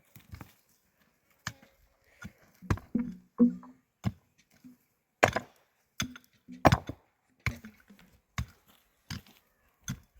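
Repeated sharp chopping blows on wood, about a dozen strokes at uneven spacing.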